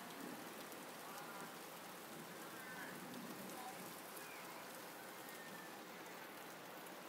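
Steady rain from a small thunderstorm falling on the yard and dripping off leaves.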